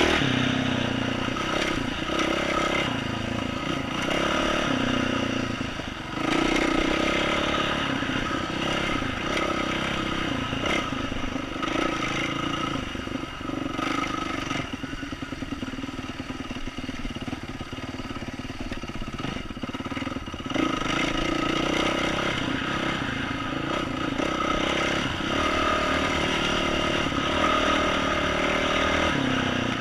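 2012 Yamaha YZ450F single-cylinder four-stroke dirt bike with an aftermarket exhaust, ridden at changing throttle: it revs up sharply about six seconds in, eases off through the middle, and picks up again about two-thirds of the way through. Some clatter from the bike is heard along with the engine.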